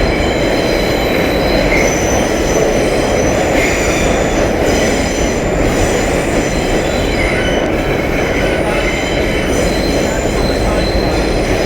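Vintage 1930s R1-9 subway cars running on the rails with a steady loud rumble, with high-pitched wheel squeal that comes and goes throughout.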